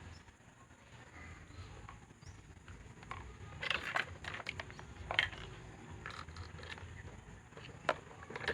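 Irregular small clicks and scrapes of electric fan motor parts being handled, bunched a few seconds in, with one sharp click near the end, over a low background rumble.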